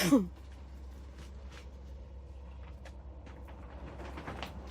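Faint rustling and light clicks as the bird's nest spruce's root ball and soil are handled, over a steady low hum.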